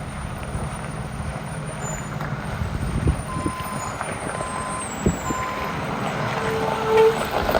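Heavy truck's diesel engine running while its reversing alarm beeps three times, evenly spaced, about midway. A couple of dull thumps, and near the end a short, louder, lower-pitched tone.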